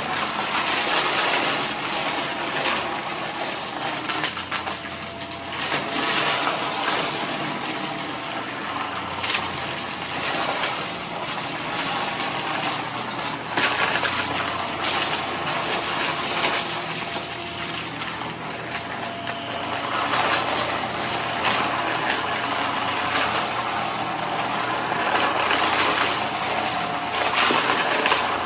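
Vacuum cleaner running steadily while sucking up scattered debris, with frequent small clicks and crackles as bits rattle up through it.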